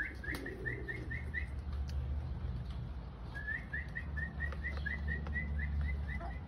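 A bird chirping in two runs of short, evenly spaced notes, about five a second: a brief run at the start and a longer one from about halfway on. A low steady rumble lies underneath.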